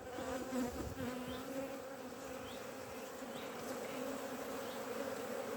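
Honeybees buzzing around an opened hive during a frame-by-frame inspection: a steady, even hum from the colony.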